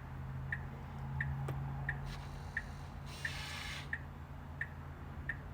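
Tesla Model S turn-signal indicator ticking steadily, about three ticks every two seconds, over a low steady hum, with a brief hiss a little past halfway.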